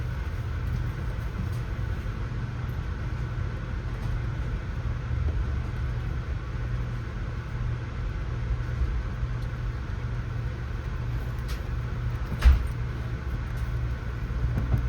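Amtrak passenger train running, heard from inside the coach: a steady low rumble and hum, with one sharp knock near the end.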